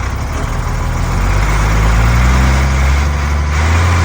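Ashok Leyland truck's diesel engine pulling, its pitch climbing from about a second in and then holding steady and loud.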